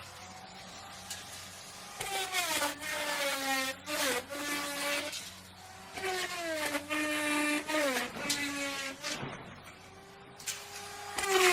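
Electric wood router cutting wood three times, the last pass starting near the end. Each time the bit bites, the motor's whine drops in pitch and holds lower under load, with a ragged cutting noise over it.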